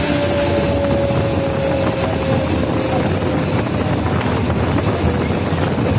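Floodwater released through a dam's spillway gates, a loud, steady rush of water, with a faint held tone slowly falling in pitch during the first half.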